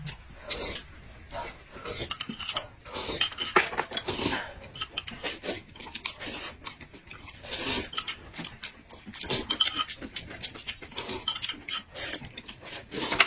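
Close eating sounds: irregular crunchy chewing, with smacking clicks and short crackles.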